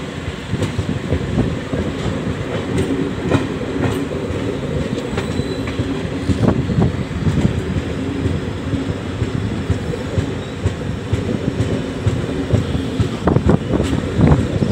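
Passenger train heard from on board while running: a steady low rumble of wheels on rail, with irregular sharp clicks and knocks from the wheels passing over rail joints, more of them near the end.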